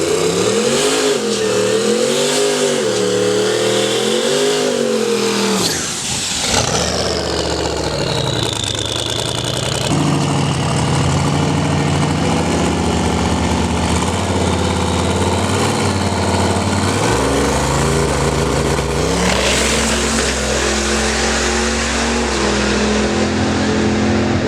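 Engines of modified 4x4 drag-racing trucks revving up and down repeatedly for about five seconds, then a full-throttle run from about six seconds in, with the engine pitch stepping through the gears.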